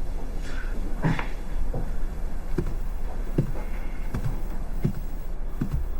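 A series of soft knocks and clicks, roughly one a second, over a steady low hum.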